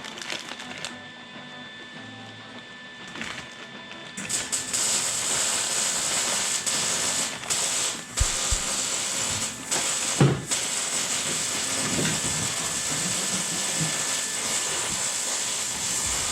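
Socket ratchet wrench clicking as it loosens the rear axle nut of a minibike. After a few seconds of quieter handling clicks, the ratcheting starts about four seconds in and goes on in strokes with short pauses between them.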